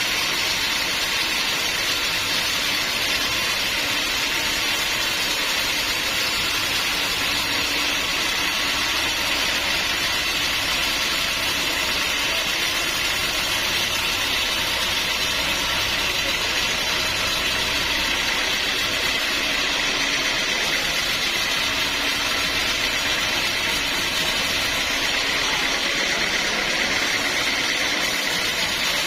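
Sawmill machinery running steadily, a constant mechanical noise with a hissing edge that does not change.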